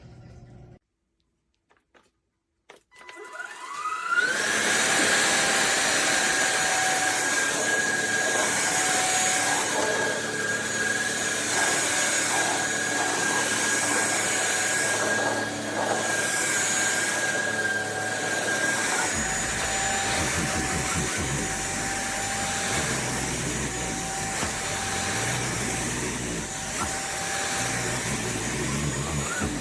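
INTETURE BP20 cordless stick vacuum switching on about three seconds in, its motor winding up with a rising whine, then running steadily with a high-pitched whine over the rush of air.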